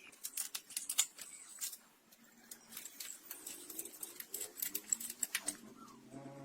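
Hand tools clinking and tapping on metal engine parts: an irregular run of sharp clicks, thickest in the first five seconds.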